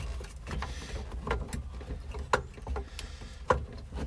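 Plastic HVAC vent ducting being worked into place under a truck dash: scattered clicks, knocks and scrapes of hard plastic, with two sharper knocks about halfway through and near the end.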